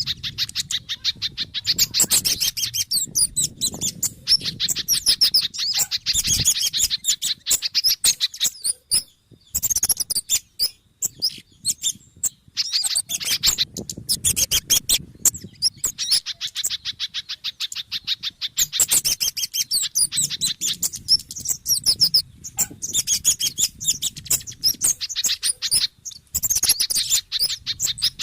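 Bird-lure recording of agitated small songbirds, a mix of kemade, sogon and spiderhunter calls: rapid, dense runs of high chips and twitters, broken by brief pauses every few seconds. Agitated calls like these are played to draw wild birds in for trapping.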